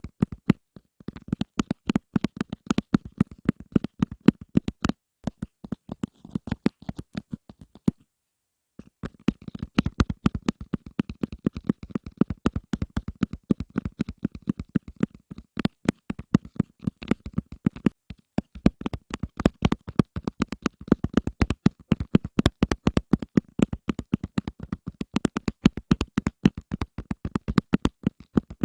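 ASMR tapping: many quick, irregular taps close to the microphone, with a short break in the sound about eight seconds in.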